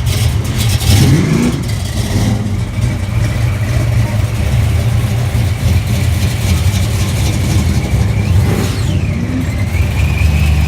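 Car engines running with a deep exhaust rumble, revved briefly about a second in and again near the end.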